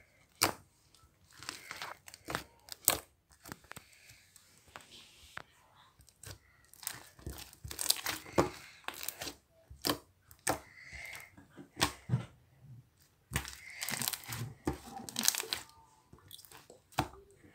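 Slime being squished and stretched by hand, giving irregular sharp clicks and small pops.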